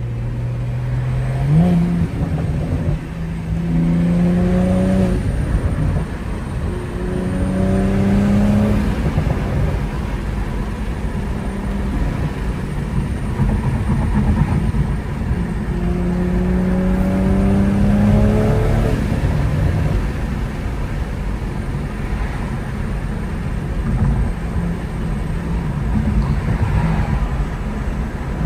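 BMW M340i's turbocharged 3.0-litre inline-six heard from inside the cabin, pulling hard several times: the engine note climbs in pitch, drops back, and climbs again, over steady road rumble.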